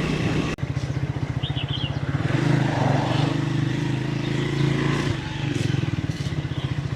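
Motorcycle engine running while riding, picking up revs about two seconds in and easing off around five seconds.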